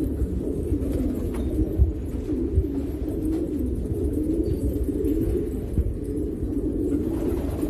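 Many domestic pigeons cooing together in a steady, overlapping chorus, with a couple of brief low thumps about two seconds in.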